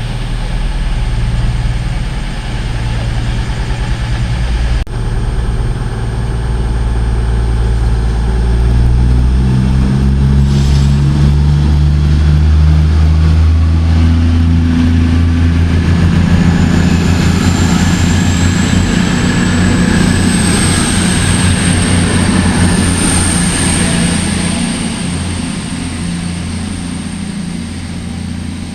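A train at a station platform, its low engine or traction note climbing in pitch as it gathers speed, joined about halfway through by a high rising whine; the sound dies away near the end.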